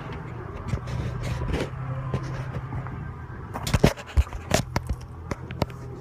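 A vehicle engine idling steadily, with scattered clicks and knocks over it, the loudest a little before the end.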